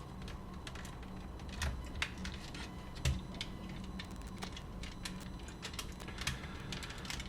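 Scattered small clicks and taps of plastic parts and small tools being handled while a cassette walkman is put back together, with two louder knocks near the start.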